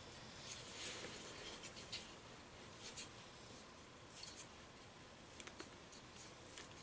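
Faint handling noises of small plumbing parts: a few short scrapes and rustles with light clicks, scattered through a quiet room.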